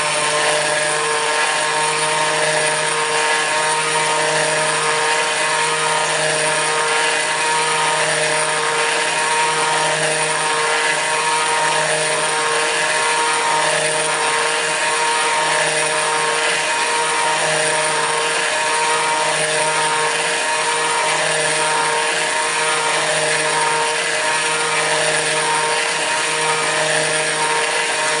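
Kress FME-1050 router spindle on a CNC Kompact H-300 mill, running steadily while cutting aluminium: a constant high whine over a hiss of cutting noise. A low hum swells and fades regularly, a little more than once a second.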